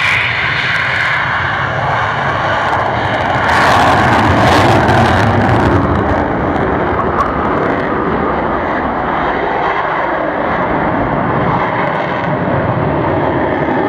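Jet noise from a Royal Netherlands Air Force F-16 fighter's engine, a continuous loud rushing sound that swells to its loudest and brightest around four to six seconds in, then settles back.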